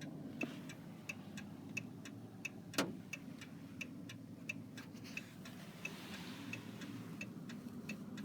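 Car turn-signal indicator ticking in a steady tick-tock, about three clicks a second, over the low hum of the car cabin. A single sharper knock comes near three seconds in.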